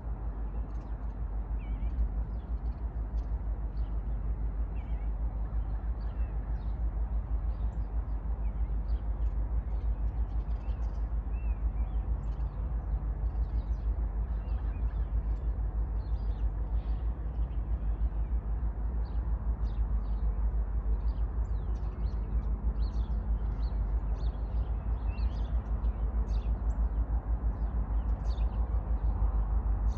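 Small birds chirping and calling repeatedly over a steady low rumble.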